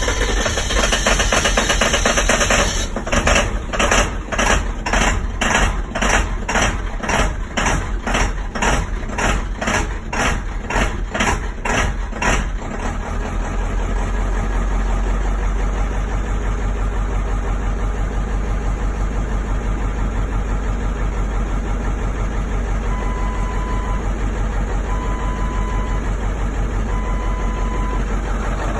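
Ford 7.3 Power Stroke V8 turbo-diesel idling roughly just after startup, pulsing unevenly about twice a second for the first dozen seconds before settling into a steadier idle. Three short beeps sound near the end.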